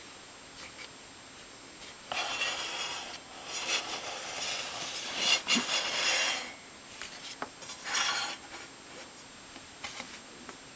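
Scraping and rubbing at the table saw while its blade alignment is checked by hand. There is a long stretch of scraping from about two to six and a half seconds in, a shorter one near eight seconds, and a few light clicks.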